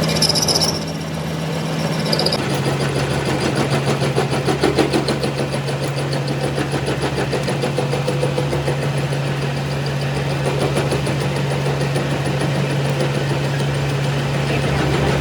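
Engine running steadily with a low hum. About two seconds in its pitch drops slightly and a fast, even pulsing sets in, after a brief hiss at the start.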